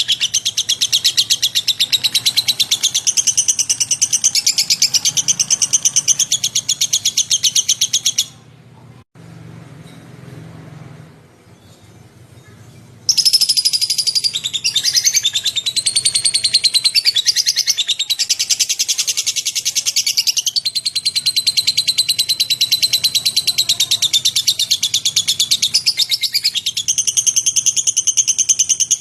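Lovebird singing a long, rapid chattering trill of fast-repeated high chirps. It breaks off about eight seconds in, then starts again about five seconds later and runs on with shifting pitch.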